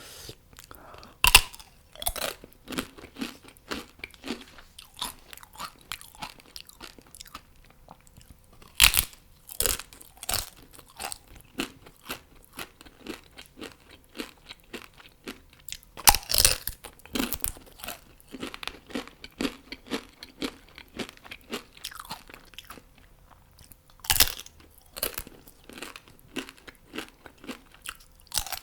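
Crunchy bites into fried chicken wings, four loud ones spaced about seven or eight seconds apart, with steady wet chewing and smaller crunches between them.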